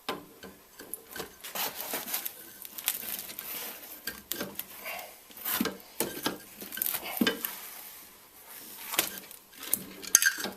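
Irregular clinks, knocks and scrapes of metal parts being handled as a car's shock strut assembly is put back together.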